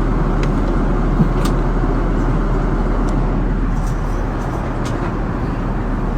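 Steady engine and airflow drone inside an airliner's cabin in flight, with a few faint clicks.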